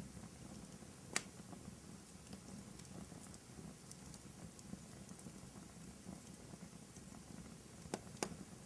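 Wood fire burning in a fireplace: a low, steady rumble of flames with faint small crackles, and three sharp pops, one about a second in and two close together near the end.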